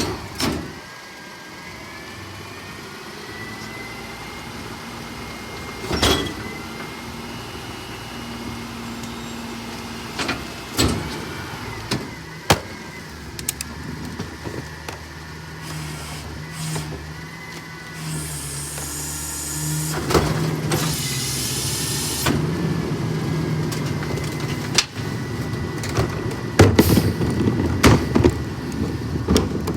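Autocar ACX CNG garbage truck with a McNeilus rear-loader body running, its hydraulics whining as the packer works, with scattered bangs and knocks and two short bursts of air hiss about two-thirds of the way through.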